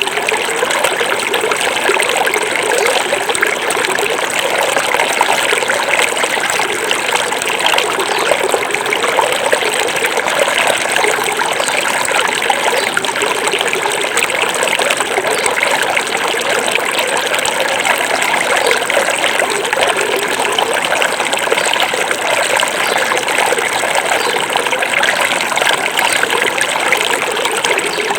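A small forest river flowing and trickling over stones, a steady, even rush of running water.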